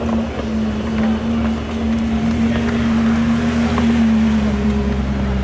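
Koenigsegg Jesko Sadair's Spear's twin-turbo V8 running at steady revs with a loud, even drone; the pitch drops slightly about four seconds in.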